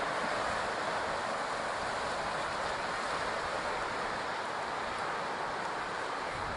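Steady rush of ocean surf on the beach, an even noise with no single breaks standing out.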